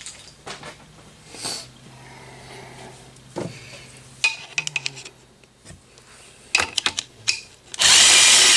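A drill-like power tool backing a cylinder head bolt out of the engine, running in a short loud burst near the end, with clinks of tools and metal before it.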